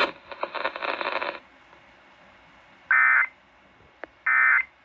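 Weather radio broadcast: after about a second and a half of broken radio noise, two short, loud warbling data bursts sound about 1.3 seconds apart. These are the Emergency Alert System SAME end-of-message tones that close the warning.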